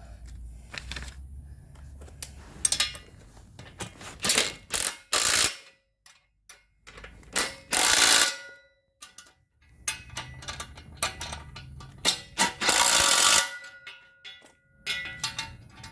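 Bolts on a tow bar's steel side arms being tightened with a ratchet: irregular bursts of ratcheting clicks and metal clatter, the longest two about eight and thirteen seconds in.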